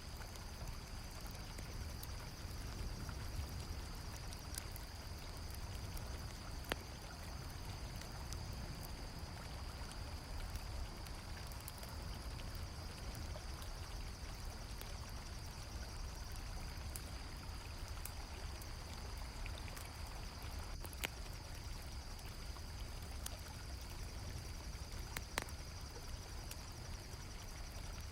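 River water flowing steadily, with crickets chirring continuously and a campfire crackling, giving a few sharp pops.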